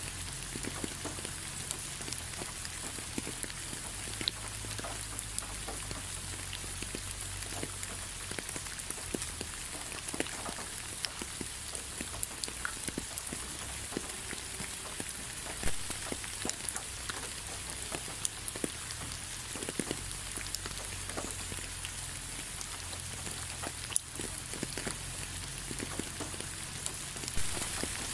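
Steady rain falling, an even hiss dotted with many scattered drop ticks, a few of them louder than the rest.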